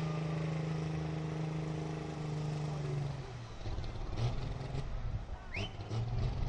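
An engine running steadily at an even idle. About halfway it drops away, leaving scattered knocks and a brief rising whistle, then comes back near the end.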